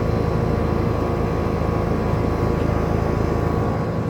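2018 Trane XR 3-ton straight-cool central air conditioner condensing unit running: a steady compressor hum with the whoosh of the condenser fan.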